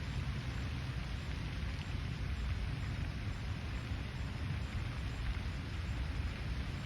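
Steady outdoor ambient noise: an even hiss over a low, fluttering rumble, with no distinct calls, splashes or other events.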